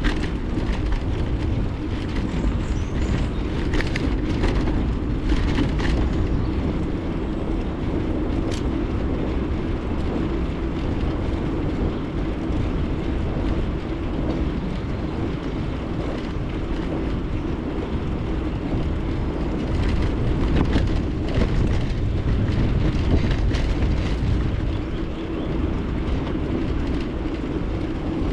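Bicycle riding noise: a steady rumble of tyres rolling over the road, with scattered short rattles from bumps in the surface.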